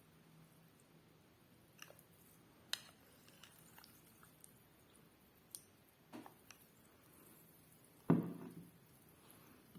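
Chalk being chewed close to the microphone: scattered small clicks and crunches, with one louder, longer crunch about eight seconds in.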